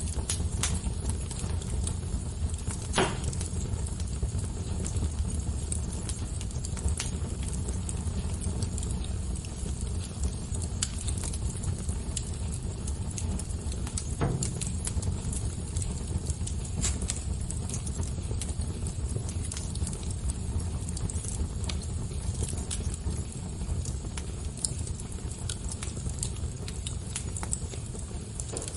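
Fire crackling: scattered sharp pops and snaps over a steady low rumble, with two louder pops, about three seconds in and about fourteen seconds in.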